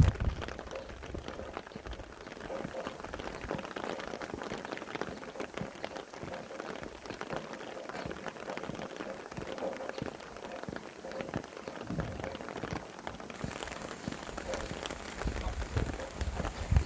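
Steady rain falling on surfaces, with individual drops ticking. A low rumble of wind builds near the end.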